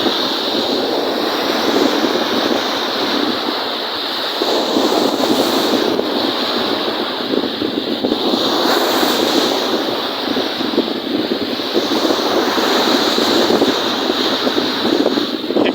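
Wind-driven lake waves breaking and washing in repeated surges, with wind rushing.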